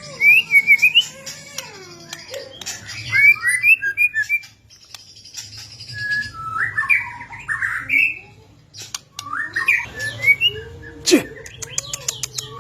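White-rumped shama singing in four bursts of quick, sliding, chattering phrases with short pauses between them, over a low steady hum; a sharp click cuts in about eleven seconds in.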